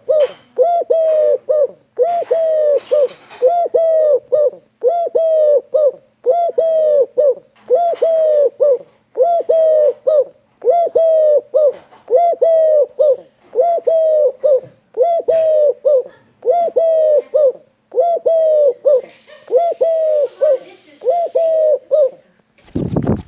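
A pet bird calling over and over, about seventeen short bouts of arched, pitched notes, roughly one bout every second and a bit. A loud low sound comes in right at the end.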